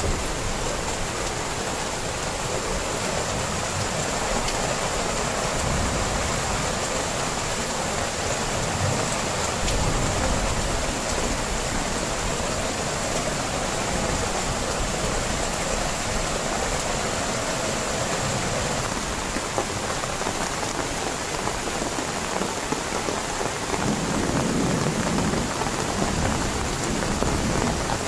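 Heavy rain falling steadily, drumming on a surface.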